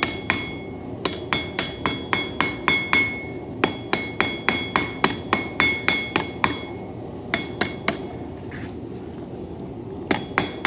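Two-pound hammer striking hot coil-spring steel on an anvil in quick runs of light blows, about four a second, with a metallic ring after each strike. The light blows knock down sharp edges and smooth the knife's handle. The runs break off briefly; after a few last strikes the hammering stops for about two seconds, then starts again near the end.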